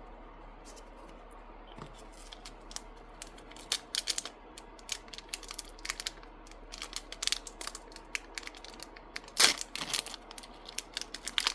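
Trading cards and booster-pack wrapper being handled: scattered small clicks, taps and crinkles, sparse at first and busier after a few seconds.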